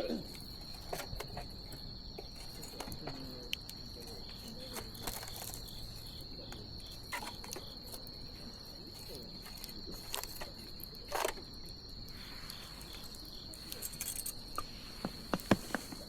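Wood bonfire crackling, with scattered sharp pops, a louder one about eleven seconds in and a cluster near the end. Underneath runs a steady high-pitched insect trill.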